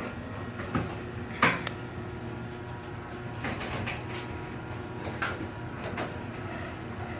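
Chamberlain MyQ garage door opener running as it raises a sectional garage door. A steady motor hum with clicks and knocks as the door's wheels roll up the tracks.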